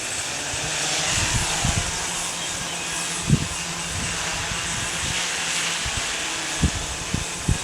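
Heavy octocopter's eight motors and propellers whirring steadily, with a low hum under a broad hiss. Strong gusts of wind thump on the microphone a few times.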